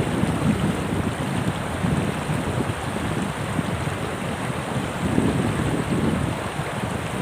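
Steady rushing noise, heaviest and gustiest in the low end.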